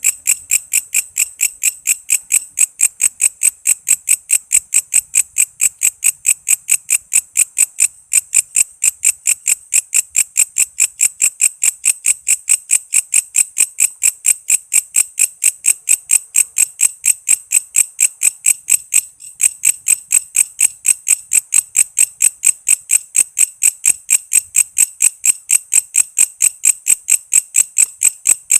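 Walang kece katydid calling: a steady train of short, high, rasping chirps at about four to five a second, with a brief break about eight seconds in and again near nineteen seconds.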